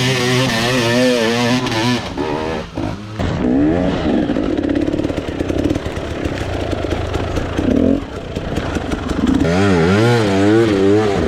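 Dirt bike engine revving, its pitch swinging rapidly up and down as the throttle is worked on and off. A denser stretch of engine noise in the middle carries a rapid run of clattering ticks.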